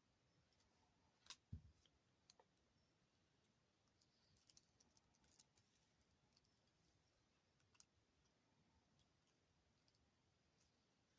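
Near silence with a few faint, scattered clicks of jewelry pliers and small metal findings being handled while a jump ring is closed.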